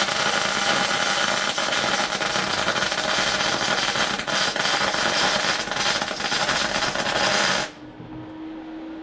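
Electric welder arc crackling steadily as a weld is laid, then stopping suddenly near the end, after which a low steady hum remains.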